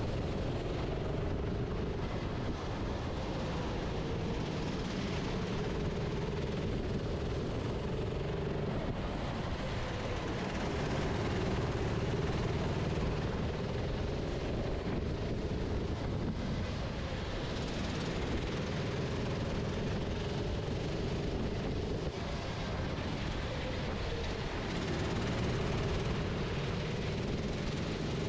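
Racing kart's engine running at speed, heard from the onboard camera, its note dipping and rising a little through the corners, with wind and track noise over it.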